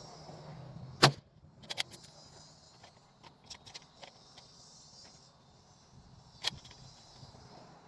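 A rifle shot about a second in, followed by a few light clicks, then a second, quieter sharp report near the end. Insects buzz faintly in the background.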